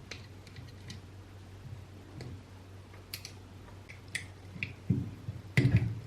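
Scattered light clicks and taps, with louder knocks about five seconds in and again just before the end: small parts and tools being handled during a repair.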